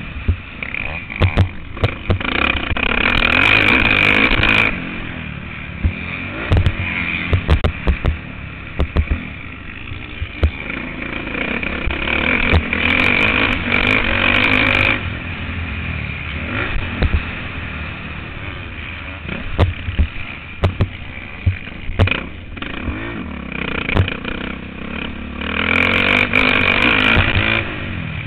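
Motocross bike's engine heard from an on-board camera, opening up to full throttle three times and falling back between, with frequent short knocks and rattles.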